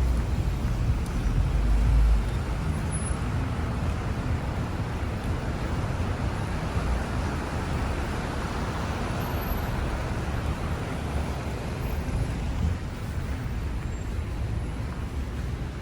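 Steady city road-traffic noise. A heavy low rumble fills the first two seconds, and the road noise swells around the middle.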